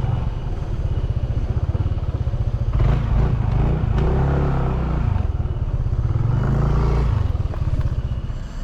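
Motorcycle engine running while being ridden, its note rising and falling a couple of times in the middle.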